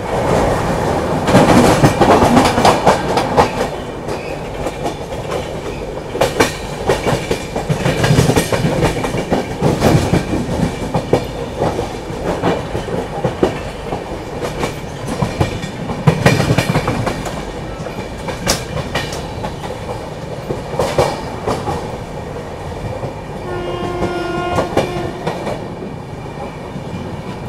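Rajdhani Express train running at speed: steady wheel-and-track rumble broken by sharp clicks of the wheels passing over rail joints and points. A horn sounds briefly near the end.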